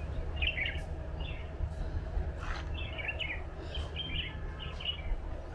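Small birds chirping in short scattered bursts of quick high notes, about half a dozen times, over a steady low rumble.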